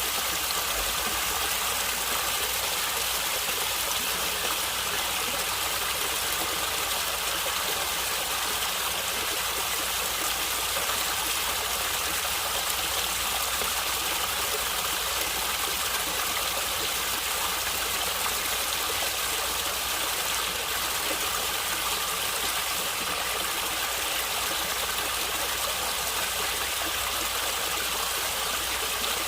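Natural running water of a stream, flowing and gurgling steadily.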